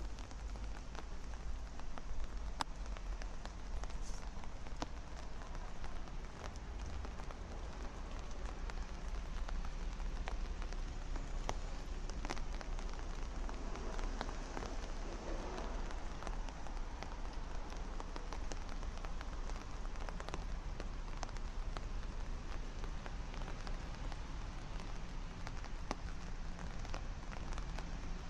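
Steady rain falling on hard surfaces, with many individual drops ticking sharply through it.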